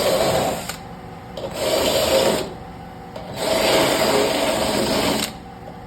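Drill spinning a rotary rasp bit against a car's quarter panel, grinding caulk and sealant out of old trim holes. It runs in three bursts with short pauses between them, and the last burst is the longest.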